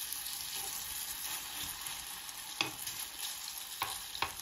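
Grated squash fritter batter sizzling in hot oil in a frying pan, a steady hiss, with a few light clicks about two and a half seconds in and near the end.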